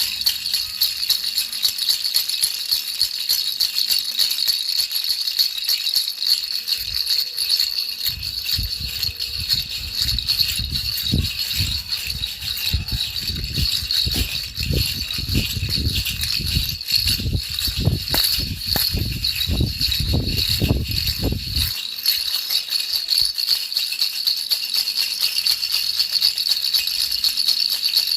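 Baby rattle shaken continuously: a steady jingling, shimmering rattle played as sleep noise. From about 8 to 22 seconds in, irregular low thuds join it.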